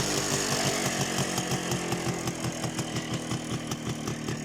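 Minsk motorcycle's single-cylinder two-stroke engine, bored out and fitted with a Voskhod piston, falling back from a rev and settling into a steady idle with an even, rapid popping beat.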